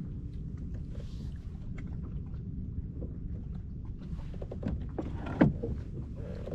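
Low water and wind rumble around a fishing kayak, with scattered small clicks and knocks, and one louder knock with a brief falling creak about five and a half seconds in.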